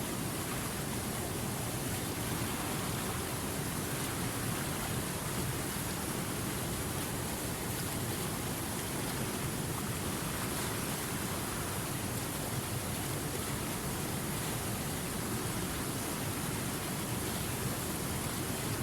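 Steady, even rushing of running water, like a waterfall, holding one level throughout.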